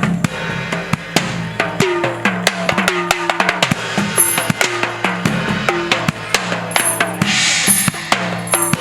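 Percussion music: drums struck in a quick, busy rhythm, the drum notes dropping slightly in pitch as they sound. A hissing shaker-like rattle comes in about seven seconds in, and high ringing notes join near the end.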